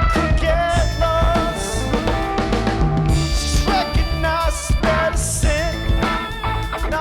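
Live rock band playing: a drum kit with cymbals under bass and a melodic line that bends and wavers in pitch.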